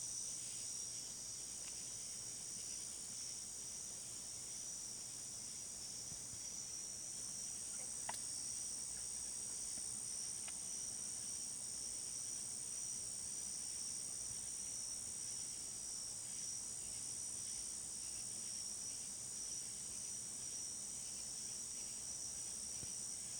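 Steady, unbroken high-pitched chorus of night crickets.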